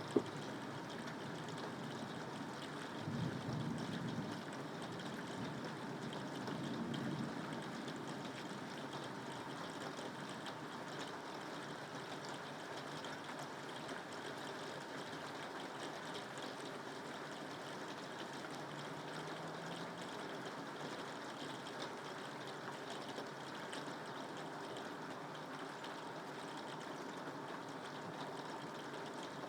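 Steady rainfall, an even hiss of falling water, with two brief low swells about three and six seconds in.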